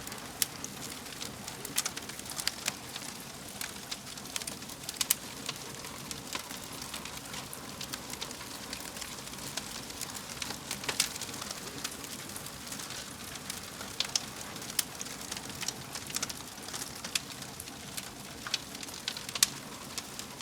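Wood fire burning with a steady hiss and frequent irregular crackles and sharp pops.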